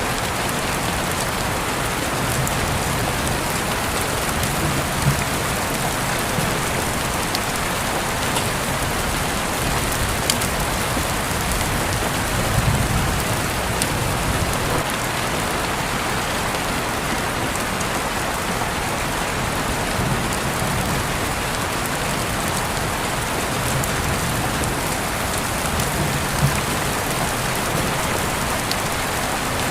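Steady rain falling and pattering on surfaces, an even hiss with scattered louder drop ticks.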